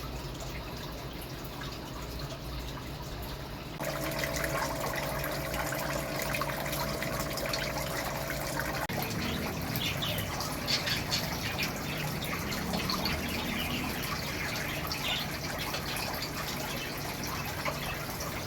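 Water running and trickling, with a steady hiss. The sound changes abruptly about four seconds in and again near nine seconds, with a faint steady hum between those points and scattered light ticks and splashes later on.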